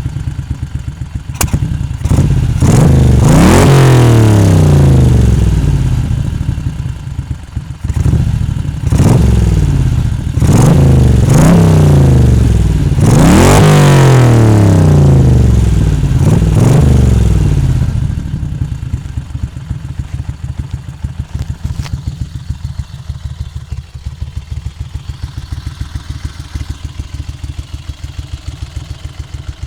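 Moto Guzzi Le Mans II 844 cc transverse V-twin through Lafranconi exhausts, revved in a series of quick throttle blips that rise and fall back. After about eighteen seconds it settles to a steady idle with distinct, even firing pulses.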